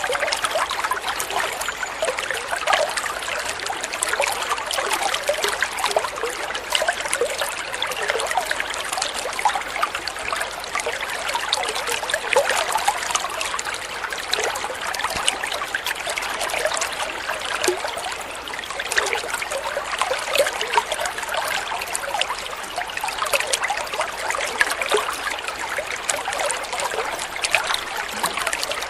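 Flowing water running steadily, with many small irregular splashes.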